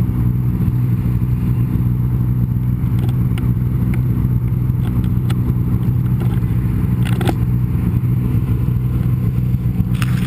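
Snowmobile engine running at a steady, even pitch while riding, with a few brief sharp clicks and knocks over it.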